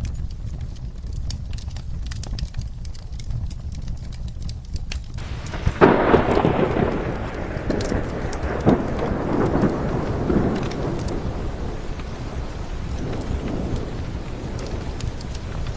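Steady rain with a low background rumble; about six seconds in a sharp clap of thunder breaks and rolls on for several seconds before dying away.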